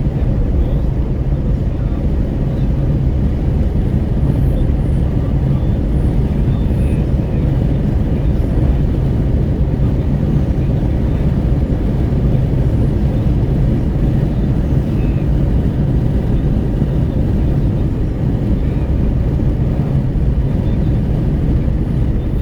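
Wind buffeting through an open window inside a Renault Kwid's cabin at highway speed, a steady low rush mixed with tyre and road noise.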